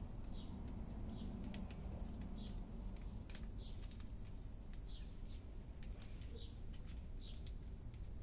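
A small bird chirping over and over, one short high chirp about every three-quarters of a second, over a steady low outdoor rumble, with a few faint clicks.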